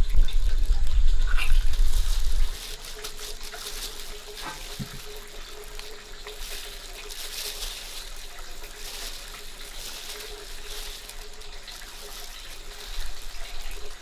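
Water running and splashing. A loud, low rumble fills the first couple of seconds.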